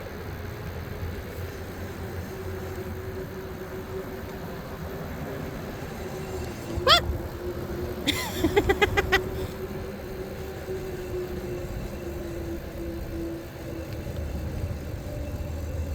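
E-bike riding along a road: steady tyre and wind rumble with a steady motor whine that fades out near the end. A short rising whoop comes about seven seconds in, then a quick run of short high-pitched calls.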